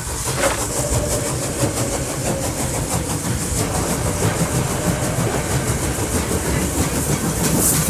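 Commuter train running, heard from inside the carriage: a steady rumble with the clatter of wheels on the track, and a faint steady whine in the first few seconds.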